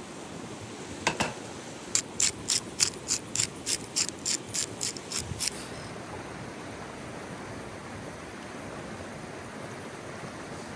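A quick run of about a dozen sharp, evenly spaced clicks or taps, roughly three a second, stopping about halfway through, over a steady rushing hiss.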